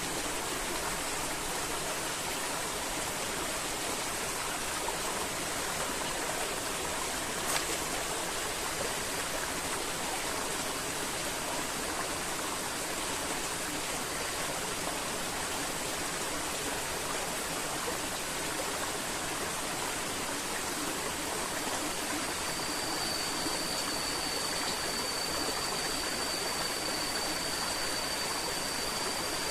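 River water flowing steadily over rocks. There is one sharp click about a third of the way in, and a thin, steady high tone joins for the last quarter.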